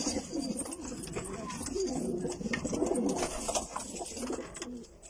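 Domestic pigeons cooing in their loft, several low, rolling coos overlapping.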